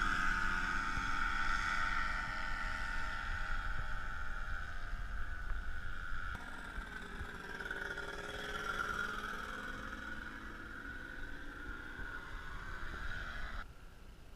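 Paramotor's two-stroke engine running in flight, its pitch drifting slowly, with wind rumbling on the microphone. The sound changes abruptly about six seconds in and drops sharply in level near the end.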